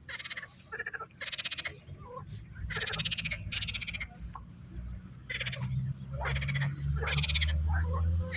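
Frogs calling: a run of short, rapidly pulsed croaks repeating every half second or so. A steady low rumble sits underneath and grows louder about halfway through.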